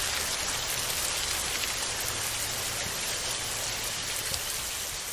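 Steady rain falling, a dense even hiss of drops with a few sharper drop ticks, starting to fade out near the end.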